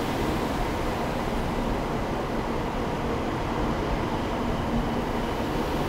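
A Shinkansen 700 series bullet train pulling out of a station, its cars rolling past with a steady rumble and a few faint steady tones.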